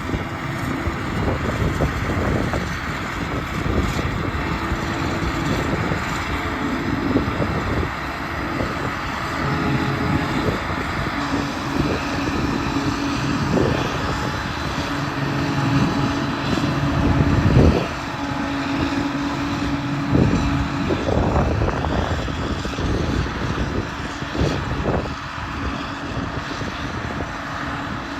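Heavy diesel engines of a Claas Jaguar forage harvester and Claas Axion tractor running under load at a grass harvest, a steady drone whose pitch shifts up and down several times as the load changes.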